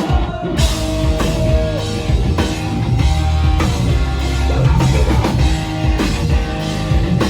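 Rock band playing live, with a drum kit, electric guitars and bass. The drums and cymbals come in with the full band about half a second in.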